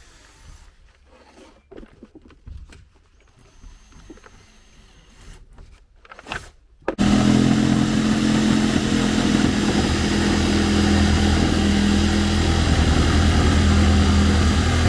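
Faint handling knocks and rustles, then about seven seconds in a loud engine or motor starts up abruptly and runs steadily at an even pitch.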